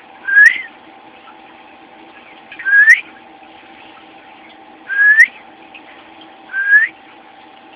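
Young cockatiel whistling: four short rising whistles, about two seconds apart, over a steady low hum.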